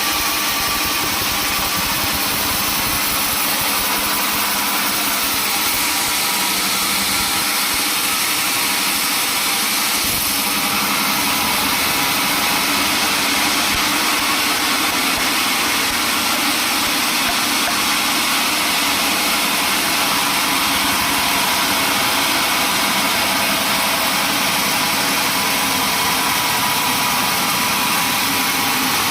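Sawmill machinery running steadily: an even, unbroken machine noise with no pauses or impacts.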